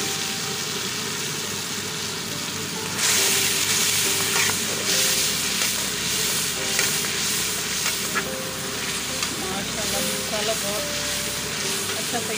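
Onions and freshly added ground spices sizzling in hot oil in a pan, stirred and scraped with a steel spoon. The sizzle gets louder about three seconds in.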